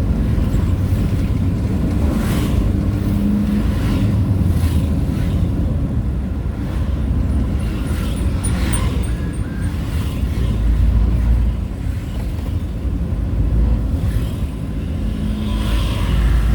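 Steady low engine and road rumble from a moving road vehicle, with short gusts of wind buffeting the microphone every second or two.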